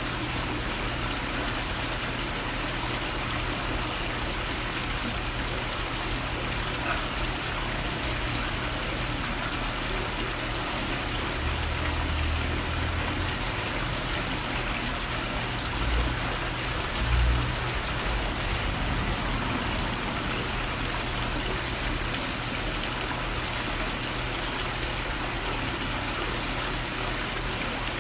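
Steady, even outdoor hiss, with a few brief low rumbles past the middle.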